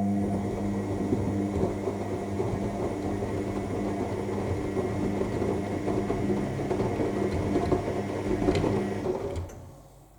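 AEG L7FE7461BI front-loading washing machine turning its drum during the main wash: the motor hums steadily as the wet laundry churns. The drum stops about nine and a half seconds in.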